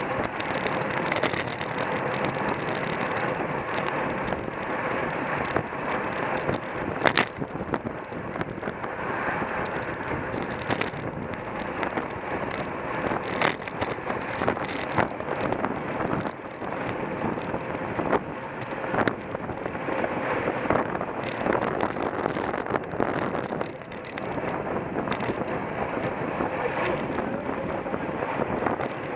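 Wind rushing over the microphone of a bicycle-mounted camera at racing speed, mixed with road and bike rattle. Scattered sharp knocks and clicks from the loosely mounted camera jolting over the road are loudest about 7, 13 and 19 seconds in.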